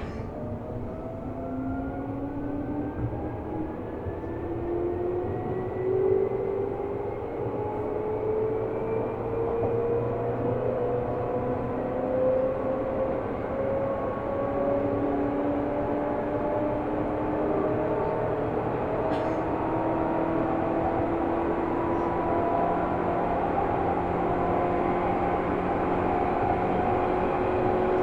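Seibu New 2000 series electric train heard from inside the car, accelerating: the traction motors give a whine of several tones rising steadily in pitch, then levelling off as the train settles to speed, over a growing rumble of wheels on rail. A single click partway through.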